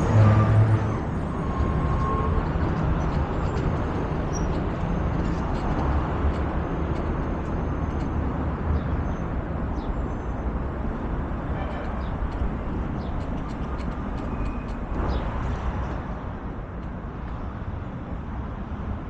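Steady traffic and road rumble with wind noise, heard from a bicycle on the move, with a brief louder low rumble about the first second.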